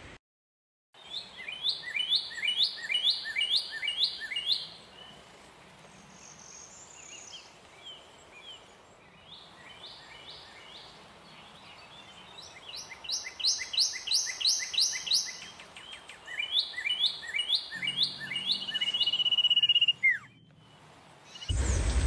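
Birds calling: runs of short, quick downward-slurred notes, about two a second, repeated in several bursts with quieter gaps between. Near the end there is one long steady whistle.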